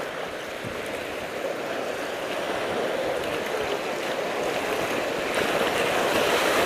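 Rushing river water from the Tuckasegee River, a steady hiss that grows gradually louder.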